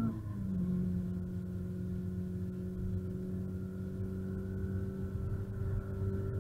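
Renault Clio RS R27's 2-litre inline-four engine heard from inside the cabin: its pitch drops sharply just after the start as it shifts up a gear, then it drones steadily while slowly rising in pitch as the car accelerates in the higher gear, over low road rumble.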